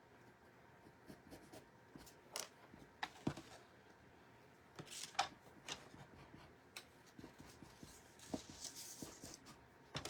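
Quiet handling sounds of craft materials: scattered light taps and clicks, with soft paper-like rustling near the end.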